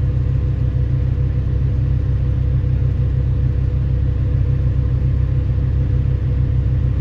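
Heavy mining machine's diesel engine running as a steady low drone, unchanging in pitch.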